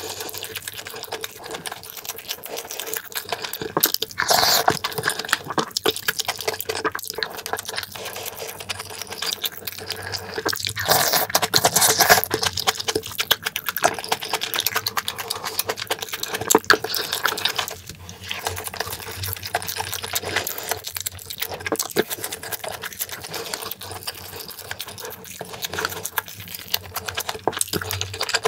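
Close-miked chewing of pan-fried pink sausage: a dense run of rapid, wet clicking mouth sounds, louder around four seconds and again around eleven to twelve seconds in.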